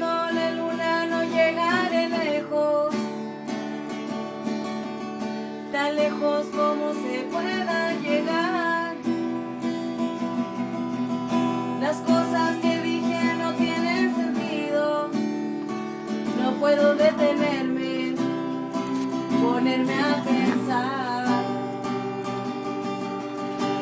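Acoustic guitar playing a song's intro, strummed and plucked chords, with a wavering melody line carried above the chords.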